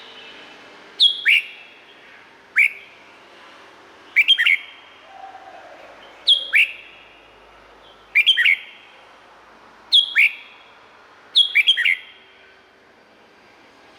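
Red-whiskered bulbul singing: seven short phrases of quick, bright falling whistles, one every couple of seconds.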